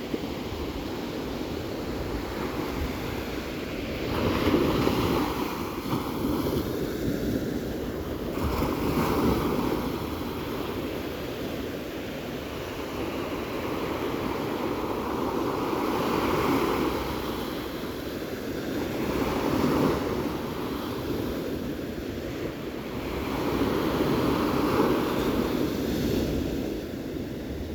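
Ocean waves breaking and washing in, with the surf swelling and easing every few seconds, and some wind noise on the microphone.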